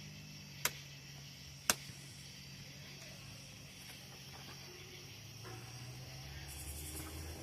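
Two sharp clicks about a second apart, typical of battery packs being snapped into the two battery slots of a Worx 40-volt cordless string trimmer, over a faint steady low hum.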